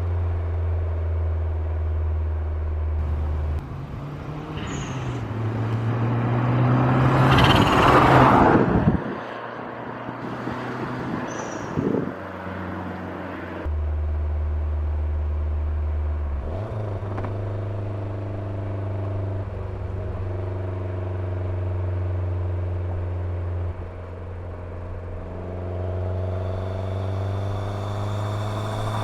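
Lancia Delta HF Integrale 16V's turbocharged 2.0-litre four-cylinder engine running, its note stepping abruptly between steady pitches several times. About six seconds in, a loud rush builds to a peak and cuts off sharply a second or so later.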